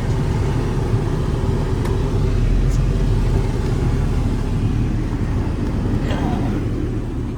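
A 2001 Jeep Cherokee's 4.0-litre straight-six, fitted with a Banks header, running steadily with a low rumble.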